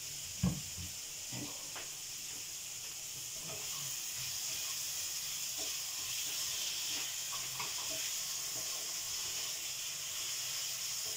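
Onion-tomato masala sizzling in ghee in an iron karahi, with a steady hiss. It is stirred with a wooden spatula that scrapes and taps the pan, with one louder knock about half a second in.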